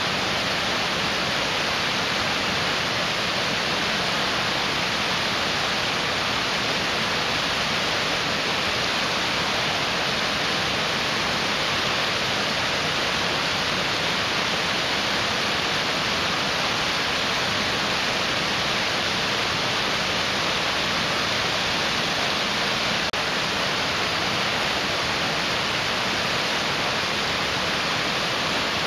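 A mountain stream rushing steadily over rocks, an even, unbroken sound of running water.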